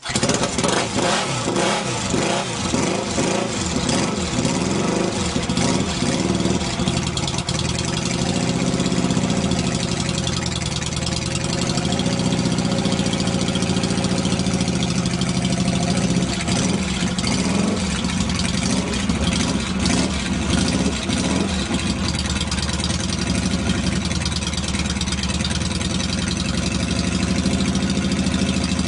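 Yamaha XS650 chopper's air-cooled parallel-twin engine running at idle, with the revs rising and falling back several times.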